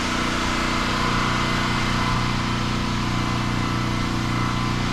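Pressure washer engine running steadily at an even idle.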